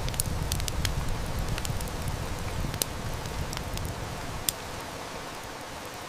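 A wood fire crackling, with sharp irregular pops and snaps, over the steady hiss of heavy rain. A low rumble sits underneath and eases off about two-thirds of the way through.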